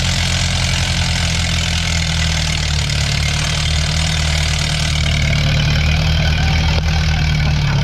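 Allis-Chalmers D17 tractor engine running hard under load, pulling the weight-transfer sled down the track; it grows a little louder about five seconds in.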